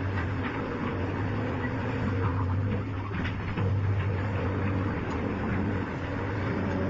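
A steady engine-like hum, with a few light clicks over it.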